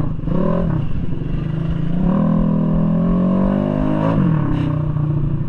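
Tuned 200cc bore-up Mahindra Rodeo scooter engine revving: a short blip near the start, then a slow climb in pitch under throttle for about two seconds that drops sharply as the throttle closes, then running on at a steady lower pitch. A low rumble, likely wind and the dirt track, runs underneath.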